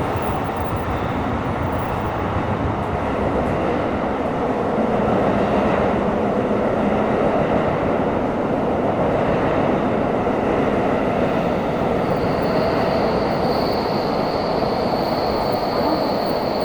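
Tokyo Metro 17000 series subway car running through the tunnel, heard from inside the car: a steady, loud rumble of wheels and running gear that swells slightly about four seconds in. About twelve seconds in, a thin steady high whine joins it.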